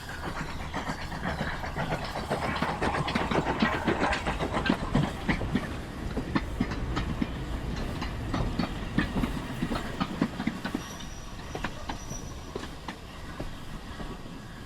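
Train running on rails, its wheels clacking over the rail joints with many irregular sharp clicks over a steady rumble. It grows louder over the first few seconds, then gradually eases off.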